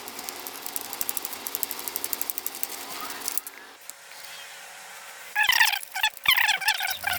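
Hand ratchet clicking rapidly and evenly, about ten clicks a second, as it turns a drain bolt on a dirt bike's transmission. The clicking stops about three and a half seconds in, and a few short chirping sounds follow near the end.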